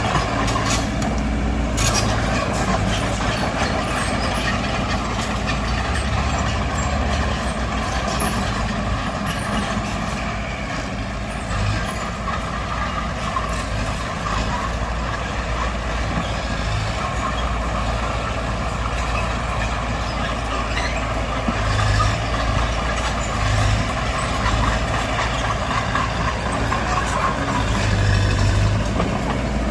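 Diesel engines of earth-moving machinery, a bulldozer and a dump truck working a pond fill, running steadily, with scattered short clanks.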